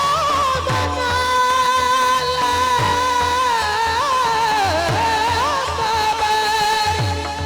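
A male kirtan singer holding one long, high sung note that wavers slightly and bends near the end, over steady devotional accompaniment with low drum strokes every second or two.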